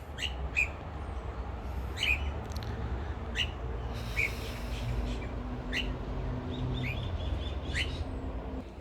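Birds chirping outdoors: about eight short, separate chirps spread through these seconds, over a low steady rumble.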